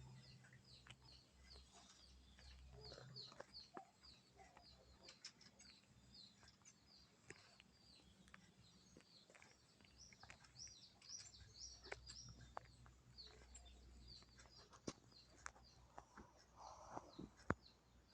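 Faint bird chirping: short, high, downward-sliding chirps repeated about three times a second, with scattered small clicks and a low background hum.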